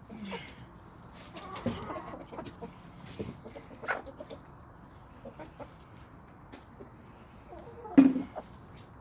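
Chickens clucking with scattered short taps and calls, and one louder cluck about eight seconds in.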